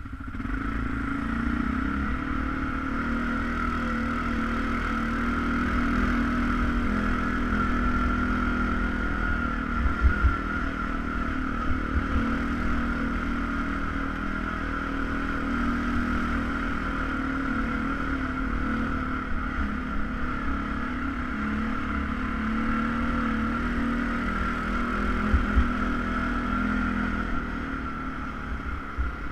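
ATV engine running steadily under way, with a constant drone and a steady higher whine, and a couple of low bumps partway through.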